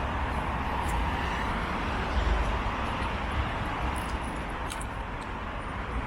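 Steady outdoor ambient noise: a low rumble under a broad hiss, with a few faint clicks.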